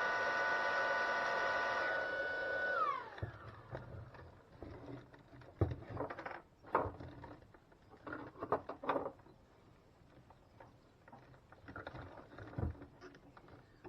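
Small electric brush-drive motor of a Vax vacuum cleaner's powered floor head running on test with a steady whine, then switched off about three seconds in, its pitch falling as it spins down. Scattered clicks and knocks of plastic parts being handled follow.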